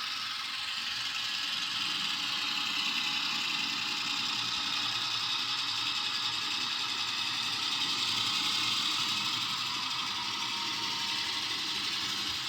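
Diesel engine sound from the ESU LokSound 5 sound decoders in two HO-scale Atlas MP15DC model locomotives, played through their small onboard speakers as they run together on the track. The sound runs steadily, swelling slightly about eight seconds in.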